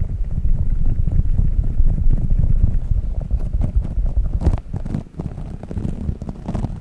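Squishy dog toy squeezed and rubbed close against the microphone, giving a dense low rumbling rub with a few sharper squishes about two-thirds of the way in.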